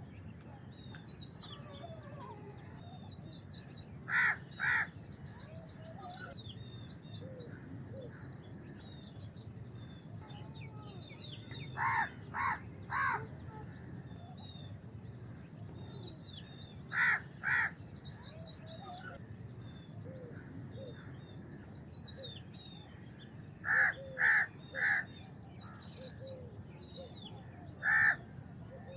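House crow cawing in short groups of two or three calls, with one final single caw, separated by pauses of several seconds. A steady twittering of small birds runs underneath.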